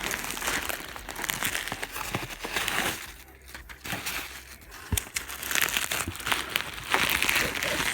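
Plastic packaging material crinkling and rustling as it is handled and pulled apart, in irregular bursts with a quieter stretch in the middle and a single knock about five seconds in.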